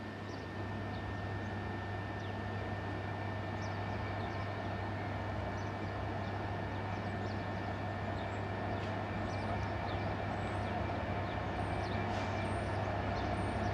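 Freightliner Class 66 diesel-electric locomotive, with its two-stroke V12 diesel engine, approaching with a freight train. The engine drone grows slowly louder throughout.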